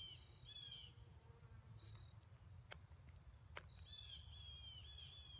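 Faint songbird song: a short run of high chirps just after the start and a longer run of repeated chirps from about four seconds in, over a low steady rumble, with a couple of faint ticks in between.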